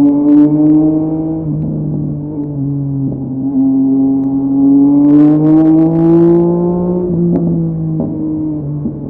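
Yamaha MT-09's three-cylinder engine with a LeoVince LV Race exhaust, running at a moderate pace with its pitch slowly rising and falling. A spell of sharp high crackle comes in about five seconds in and lasts over a second.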